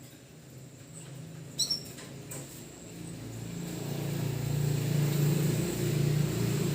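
A canary gives one short, high chirp about a second and a half in. After that, a low, steady engine-like rumble grows louder and takes over.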